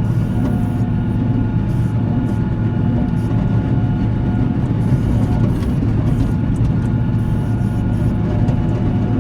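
Diesel engine of a Volvo L70C wheel loader running steadily, a constant low drone that holds an even pitch throughout.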